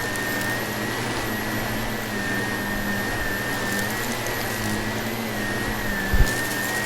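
Vacuum cleaner running steadily, with a high motor whine over its airflow noise. There is a short low thump about six seconds in.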